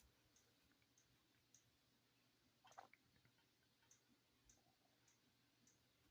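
Near silence: faint room tone with soft, regular little ticks and one brief faint sound a little under three seconds in.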